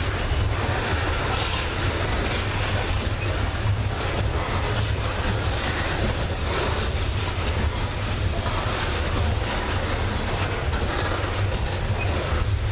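Diesel freight train: a steady low rumble with rail noise and no change in loudness.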